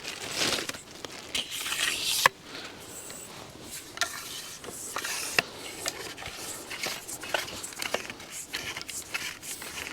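Rustling and scraping of camping gear being handled, with a few sharp clicks and knocks scattered through it.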